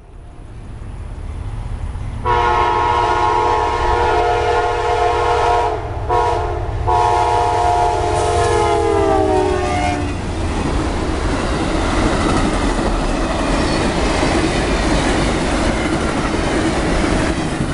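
Amtrak passenger train rumbling in and sounding its multi-note horn, with two brief breaks, the chord dropping in pitch as the locomotive passes. The horn stops about ten seconds in, and the train's cars then rush past with clattering wheels.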